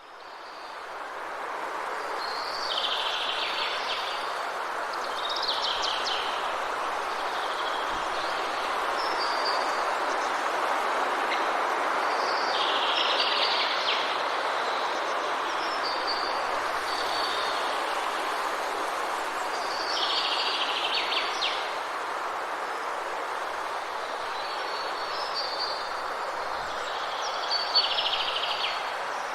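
Forest ambience: a steady, even rushing hiss like rain in trees, fading in over the first couple of seconds. A songbird sings a short, high phrase about five times, every few seconds.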